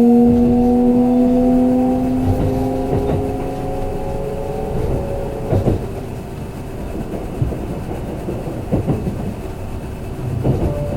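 Kintetsu limited express electric train heard from inside the car: a motor whine rising slightly in pitch and fading out about halfway through, over a steady running rumble, then the wheels knock over rail joints a few times.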